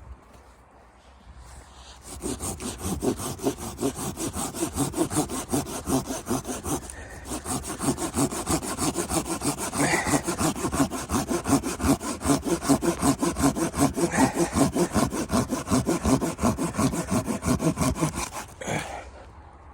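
A hand saw cutting through wood with quick, even back-and-forth strokes, starting about two seconds in, pausing briefly about a third of the way through and stopping shortly before the end.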